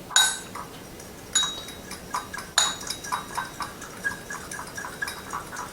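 A whisk clinking against a bowl, stirring seasoning into oil: one ringing clink at the start, then from about a second in a run of quick clinks, several a second.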